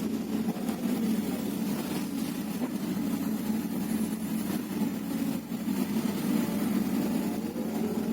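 Diesel engine of a Hyundai 330LC-9S crawler excavator running steadily at working speed, with slight rises and falls in level as it works.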